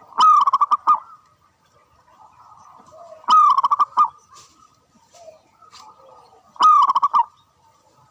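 Zebra dove (perkutut) cooing three times, a call about every three seconds. Each call is a sharp first note followed by a quick stutter of short coos.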